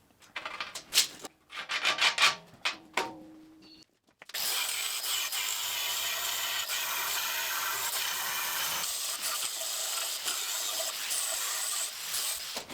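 A few scattered knocks and scrapes. Then, after a brief silence, a steady abrasive grinding noise starts suddenly about four seconds in and holds evenly for about eight seconds.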